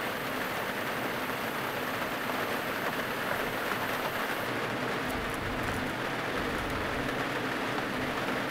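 Heavy rain drumming steadily on the roof of a small car, heard from inside the cabin.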